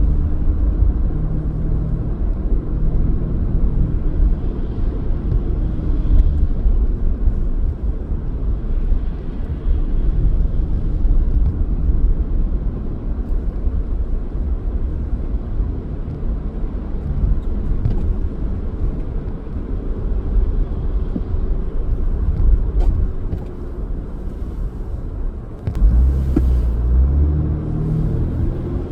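Car driving on city streets: a steady low rumble of engine and road noise, which eases for a couple of seconds near the end and then comes back louder.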